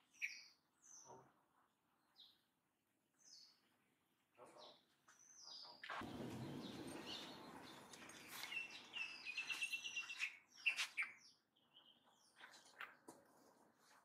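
Scattered short bird chirps, with a stretch of rustling noise in the middle and a fast trill of repeated notes about two-thirds of the way through.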